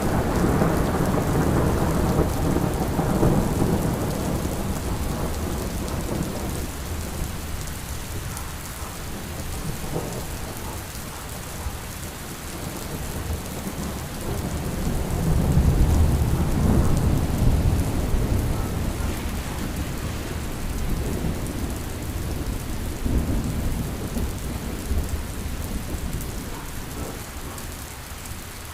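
Steady rain with low, rolling thunder rumbles, loudest at the start and again about halfway through, easing off near the end.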